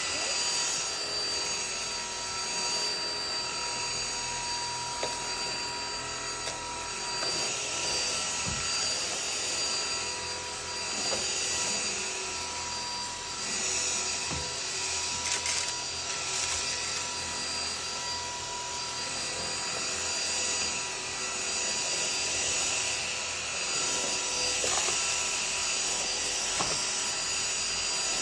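Homeika cordless vacuum's motor running steadily with a high whine as it sucks up food mess, with occasional short clicks of debris being picked up.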